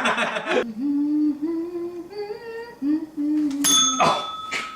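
A person humming a melody, moving step by step between notes for about three seconds. Then a small bell strikes once and rings on.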